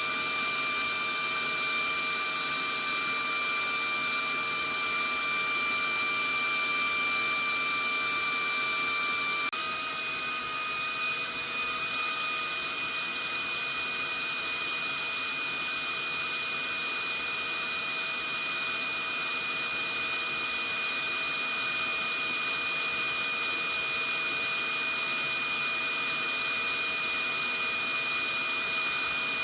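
Vacuum cleaner running steadily: a loud hiss of rushing air with high, steady motor whines. About nine seconds in, the whine shifts suddenly a little higher and the sound gets slightly louder.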